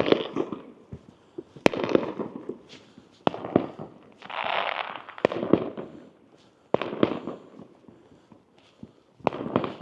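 Fireworks going off around the streets: about five sharp bangs a second or two apart, each echoing away, with smaller cracks and crackling in between.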